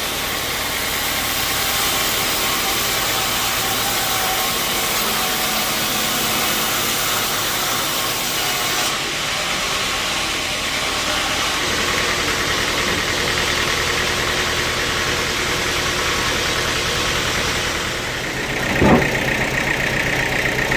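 Sawmill machinery running steadily: a constant engine-like hum under a loud hiss, its tone shifting a little partway through, with one sharp knock near the end.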